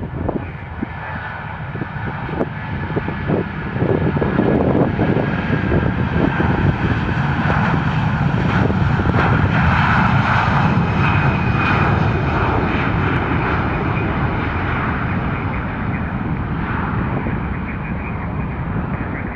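Jet airliner passing close by, its engine noise with a high whine building about four seconds in, loudest around the middle, then slowly fading.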